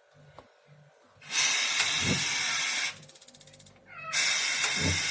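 Fresh gas water heater run on compressed air instead of water: two loud bursts of hissing air, each about a second and a half, with fast, even ticking from the igniter between them. The heater switches on and cuts out because there is no water in it.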